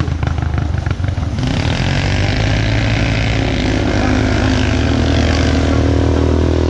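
Jeep Wrangler's engine running steadily at low revs as it crawls through mud in low speed. There is crackling for the first second or so, then a steady hiss joins.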